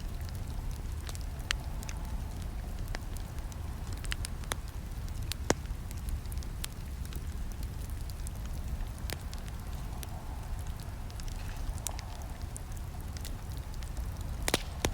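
Campfire crackling: irregular sharp snaps and pops from burning wood over a steady low rumble of the flames, with one louder pop about five and a half seconds in and a quick cluster of pops near the end.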